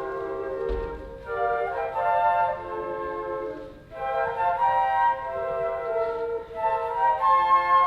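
Instrumental music carried by flute: a melody of held notes in phrases, with short breaks between them.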